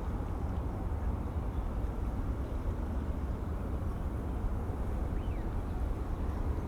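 Wind buffeting the microphones: a steady, fluttering low rumble.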